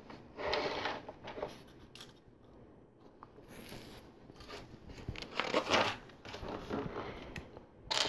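Plastic LEGO pieces being handled: rustling and light clicking in a few irregular bursts as parts are picked out and fitted together.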